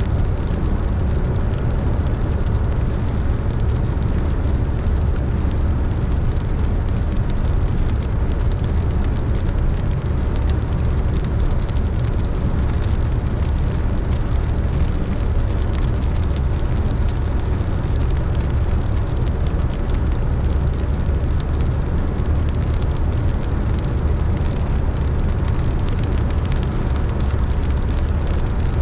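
A car driving in the rain: a steady low rumble of road and engine noise, with rain pattering on the car.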